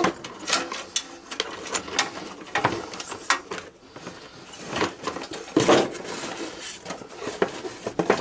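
Irregular clicks, knocks and clatter of small hard parts being handled and moved about, as in rummaging, with a few louder knocks spread through.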